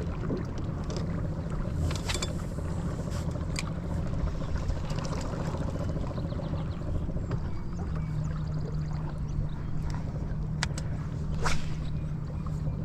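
Boat motor running steadily with a low hum that firms up about eight seconds in, over water and wind noise, with a few sharp clicks.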